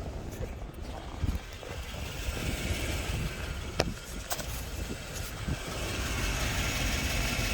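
Lexus GX 470's 4.7-litre V8 idling steadily while it warms up from a cold start, with two sharp clicks about four seconds in.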